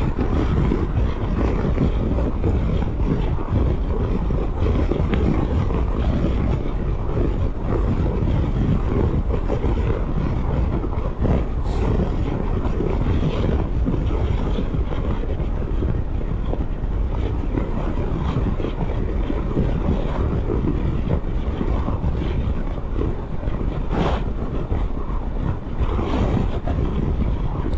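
Steady wind rush on the microphone mixed with the running of a Triumph Tiger 1200 GT Explorer motorcycle while it is being ridden.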